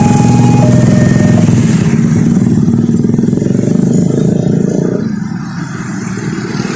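Motorcycle engines running loud as traffic moves across a railway level crossing, fading about five seconds in. A crossing warning signal sounds alternating notes for the first second and a half.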